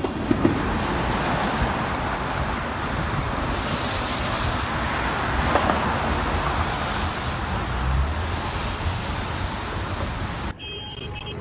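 Steady rushing rumble of outdoor vehicle noise. It cuts off near the end, where music with steady notes takes over.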